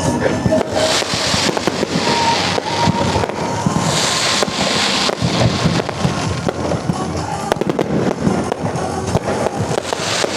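Aerial fireworks going off in rapid succession, dense booms and crackles, with a hissing crackle strongest about four seconds in. Music plays underneath.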